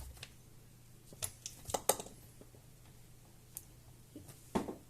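A few light, scattered clicks and knocks from hands working a laptop's display hinges and lid.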